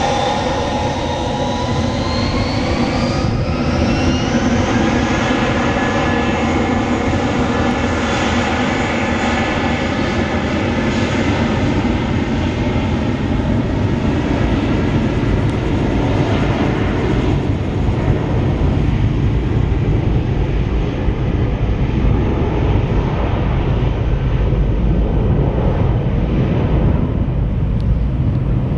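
Airbus A319's IAE V2500 jet engines spooling up, with a rising whine over the first five seconds or so, then running steadily at high thrust for the takeoff. The whine fades in the second half, leaving a low rumble.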